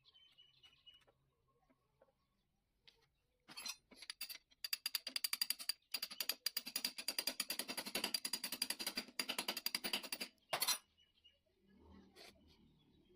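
Ratchet wrench clicking rapidly in several runs with short pauses, as a fastener is driven on the engine.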